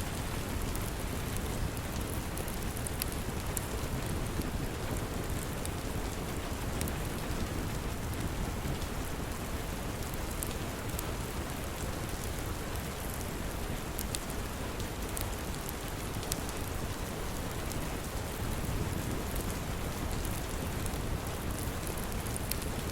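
Steady rain, with a low rumble underneath and scattered light ticks throughout.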